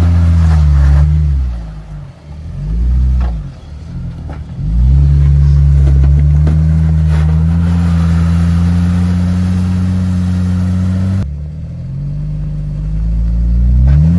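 Jeep engine working under throttle, its pitch rising and falling with several quick revs and then held steady for a few seconds. A few sharp knocks are heard along the way, and it revs up again near the end.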